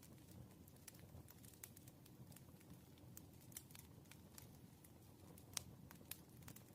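Faint irregular clicks and taps of a pen or pencil on paper while writing through practice problems, over a low steady room hum; one sharper click about five and a half seconds in.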